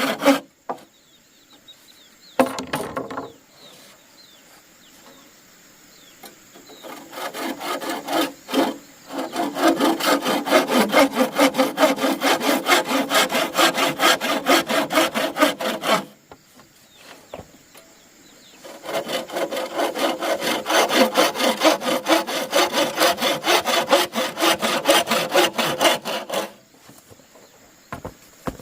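Hand saw cutting through wood in quick, even back-and-forth strokes. There are two long bouts of sawing with a pause between them, and a brief knock shortly after the start.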